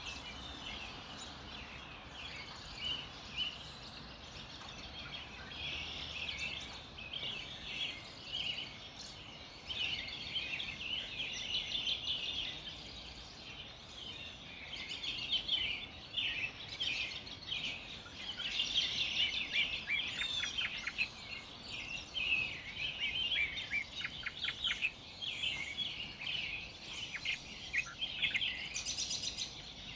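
A dawn chorus of many songbirds singing at once: overlapping chirps, trills and quick downward-sweeping notes, busier in the second half.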